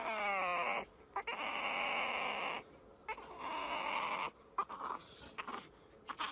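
A dog vocalising: a whine that slides down in pitch at the start, then a few drawn-out, breathy sounds about a second long with short pauses between them.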